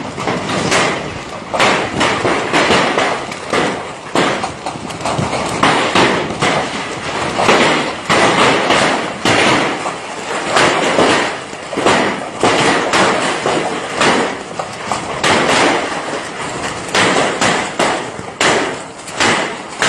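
Stones falling and crashing down a slope during heavy rain: a rapid, irregular series of knocks and thuds over a steady rushing noise.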